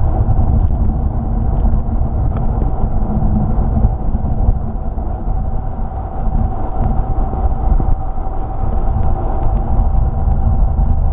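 Cabin noise of a Saab 340B's twin General Electric CT7 turboprop engines and propellers: a steady low rumble with one constant droning tone.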